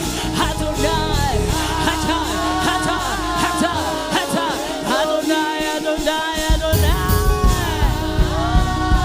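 Gospel worship singing with full band accompaniment: a sustained, wavering vocal line over keys. The bass and drums drop out midway and come back in with a steady beat about two-thirds of the way through.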